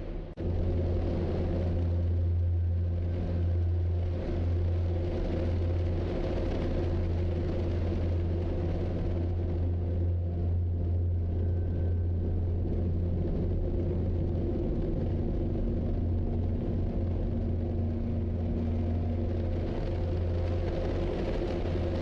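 Steady low vehicle rumble of engine and road noise, with a brief drop just after the start.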